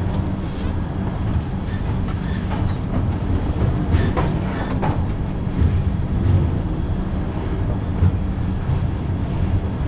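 Moving passenger train running: a steady low rumble of wheels on track, with a few irregular sharp clicks and knocks.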